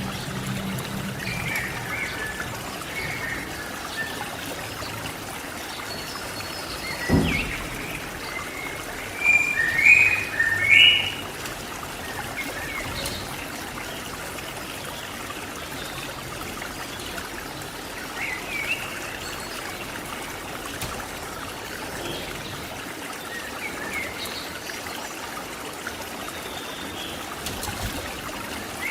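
Short, high chirping calls of a cililin songbird come in scattered phrases, loudest as a quick cluster of notes about ten seconds in. A steady trickle of running water sits underneath, and there is a single dull thump about seven seconds in.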